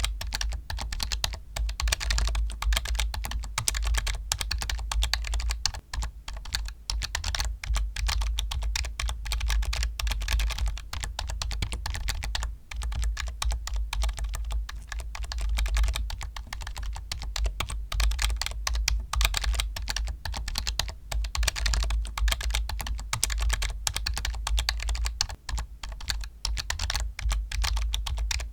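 Fast, continuous typing on a computer keyboard, a dense stream of key clicks with a few short pauses, over a steady low hum.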